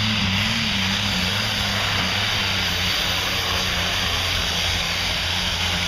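Pulling tractor engine heard across the track, a steady drone with no distinct events.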